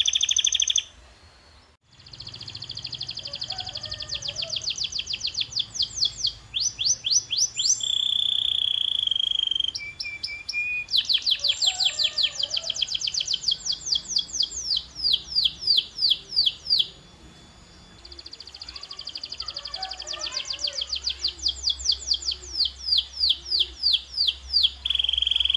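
Domestic canary singing: phrases of fast repeated notes in rolling trills, some falling sweeps and one held whistled note, broken by short pauses about a second long.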